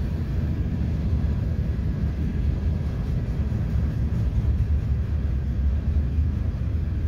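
Freight train cars, tank cars and then empty gondolas, rolling past with a steady low rumble.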